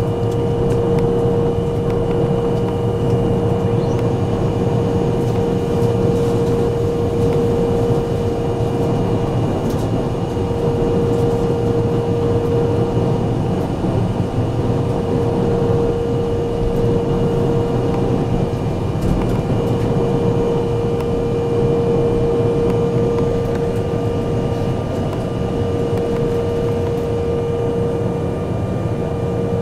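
Inside the cabin of an Embraer 175 taxiing after landing: the steady rush and hum of its GE CF34 turbofans at low power and the cabin air, with one steady droning tone.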